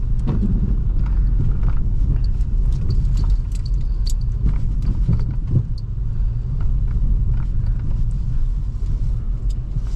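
Steady low rumble of a 2005 Toyota Highlander's 3.3 L V6 and tyres on a snowy road, heard inside the cabin while driving, with scattered faint clicks.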